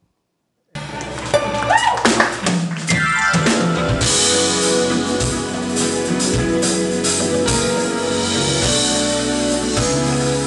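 Band music with a drum kit, bass drum and guitar, starting abruptly less than a second in after a brief silence and then playing on steadily.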